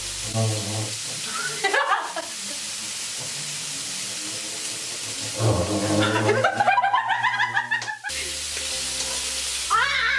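Meat frying in oil in a wok, a steady sizzling hiss, with bursts of laughing voices over it.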